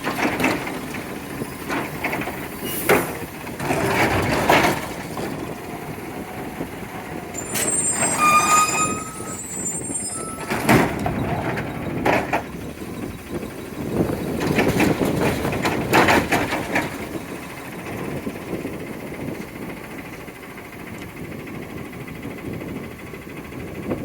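Recycling truck working: its engine runs under a string of loud hissing bursts and clanks, with a brief squeal about eight seconds in.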